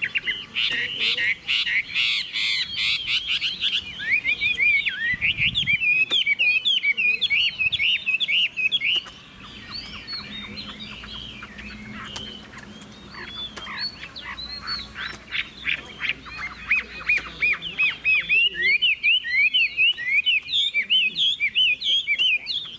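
Caged Chinese hwamei singing a long, varied song of fast trills and quick rising and falling notes, softer for several seconds in the middle.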